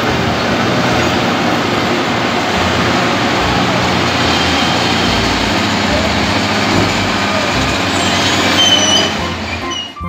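Caterpillar 966F wheel loader's diesel engine running steadily as it works a coal pile. A few short, high squeals come near the end.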